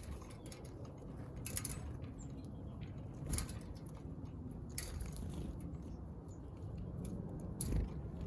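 Small birds pecking and cracking seed at a feeder: scattered light clicks and taps at irregular intervals, a few of them louder, over a low background rumble.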